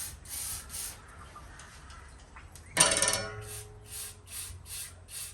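A hand tool worked on metal in quick back-and-forth strokes, about two or three a second, with one loud ringing metallic clank about three seconds in.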